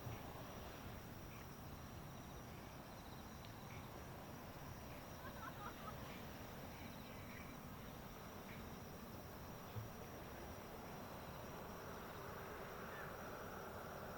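Insects chirping and trilling over a faint, steady background noise. A higher band of noise swells in over the last couple of seconds.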